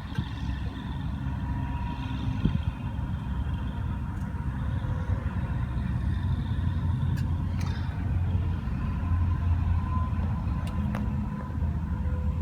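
Steady low rumble of a running rooftop air-conditioning unit, with a faint steady hum above it and a few light clicks.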